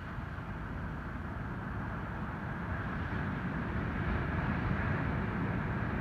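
Ocean surf: a steady rush of breaking waves that grows gradually louder over the first few seconds as typhoon swell rolls in.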